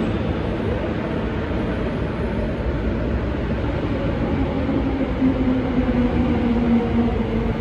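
MTR Tuen Ma line electric train pulling into the station, with a steady rumble of wheels on rail. A motor whine comes in about halfway and holds to near the end.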